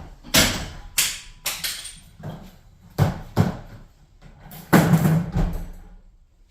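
Irregular knocks and bangs, about eight over six seconds with the heaviest cluster about five seconds in, from garage door parts being handled and taken down.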